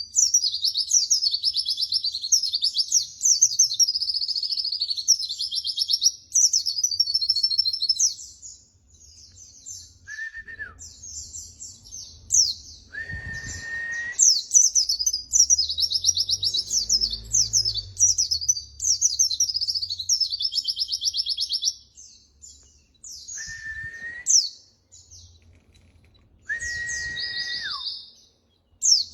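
White-eye (pleci) song: long runs of rapid, high, chattering twitters in phrases with short pauses. Now and then a short, steady, lower whistled note cuts in, the last one dropping at its end.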